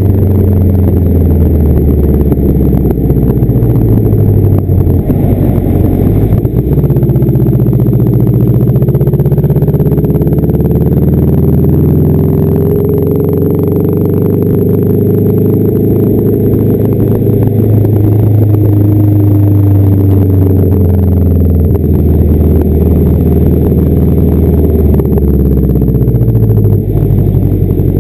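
Straight-piped flat-four engine of a 1992 Subaru Legacy, running with a deep, loud exhaust note. Engine speed rises and falls slowly over several seconds at a time.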